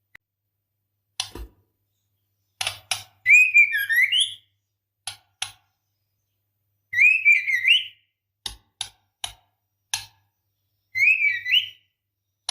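Female white-rumped shama calling to a male: three short warbled whistle phrases, with sharp single clicking notes between them.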